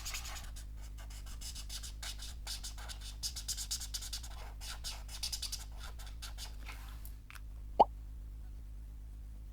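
G pen dip nib scratching across paper in quick short strokes, stopping after about seven seconds; then one sharp tap, the loudest sound, a little before the end.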